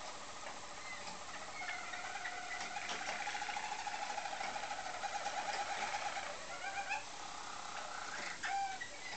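Roller canaries singing: low, rapid rolling trills with higher warbled notes above them, building from about two seconds in and breaking off near seven seconds.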